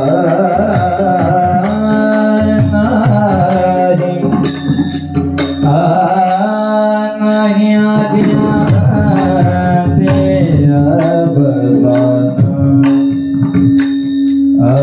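Marathi kirtan music: a melody over a steady held drone, with drum beats and small hand cymbals struck at an even rhythm.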